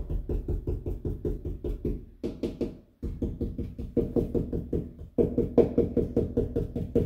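Impact driver hammering screws into wall studs in several bursts of rapid blows over its motor hum, stopping briefly between bursts.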